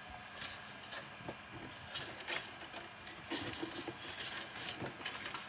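Irregular plastic clicks, rattles and rustles of a loose strand of 3D-printer filament and its spool being handled.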